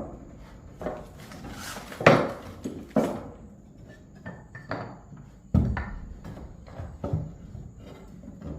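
Irregular knocks and clatter of objects being handled, the loudest about two, three and five and a half seconds in.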